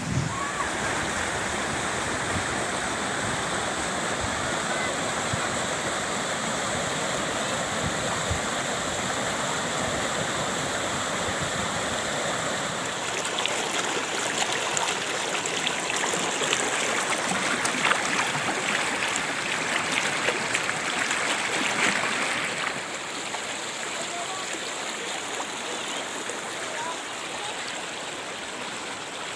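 Waterfall water rushing and splashing steadily. It grows brighter and hissier from about halfway through, then eases slightly a few seconds before the end.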